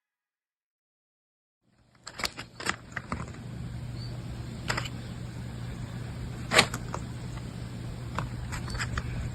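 Silence for about two seconds, then a steady low hum with several sharp clicks and taps scattered through it, one louder snap about two-thirds of the way in.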